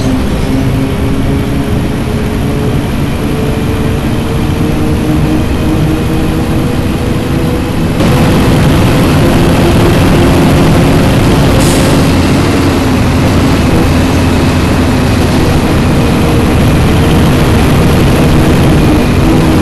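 Scania city bus's diesel engine running, its pitch rising slowly for about eight seconds before the sound turns suddenly louder and rougher. A brief hiss comes about twelve seconds in.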